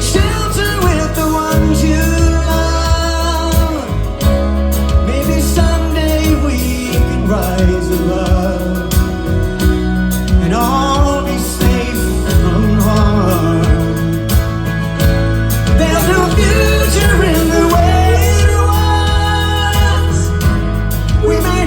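Rock band playing live, with singing over a full band mix and a heavy low end.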